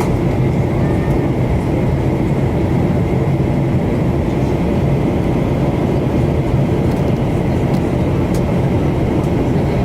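Steady drone inside the cabin of a Boeing 737-800 in flight, from its engines and the airflow, with a faint steady whine above it.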